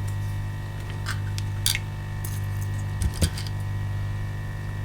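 Small hand tools clicking and tapping on a workbench, with the sharpest clicks a little after a second and a half and at about three seconds, over a steady electrical hum.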